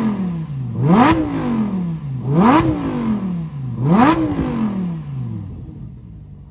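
Lamborghini with a NOBLESSE aftermarket exhaust revved while parked, in three quick blips about a second and a half apart. Each one shoots up sharply and winds down more slowly. The engine then settles back to a steady idle near the end.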